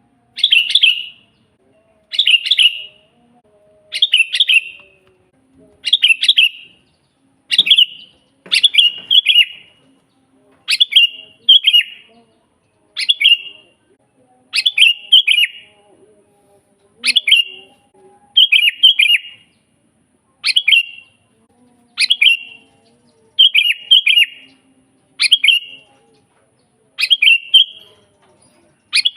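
Sooty-headed bulbul (kutilang) singing: short phrases, each under a second long, repeated steadily about every two seconds.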